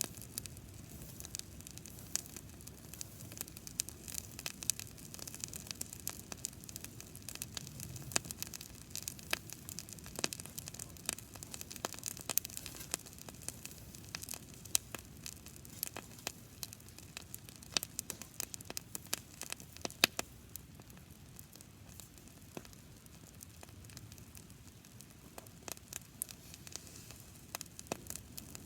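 Campfire of dry grass burning, a steady hiss with many sharp crackles and pops scattered throughout, one louder pop about two-thirds of the way through.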